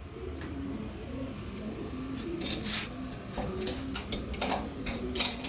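Domestic pigeons cooing in a loft, a low wavering coo going on throughout, with a few brief rustles or knocks a little past halfway and near the end.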